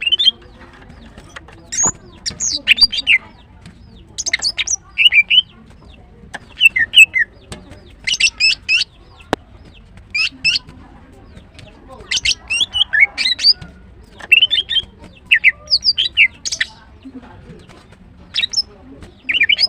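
Female greater green leafbird calling: short bursts of quick, high chirps and whistled notes, a burst every second or two.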